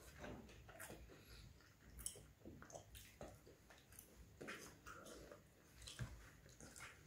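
Faint chewing and mouth noises of a person eating plain roti with curry by hand, with scattered short clicks as fingers pick at the food on the plate.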